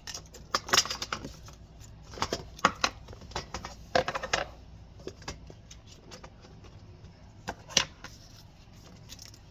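Irregular clicks, taps and short rustles of small objects being handled, thickest in the first few seconds and thinning out after that.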